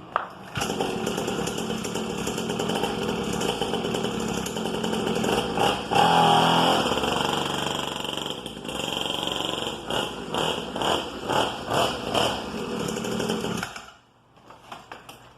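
Syx Moto 50cc two-stroke dirt bike engine starting about half a second in and running, revved up around the middle. It then takes a run of quick throttle blips and cuts off suddenly near the end.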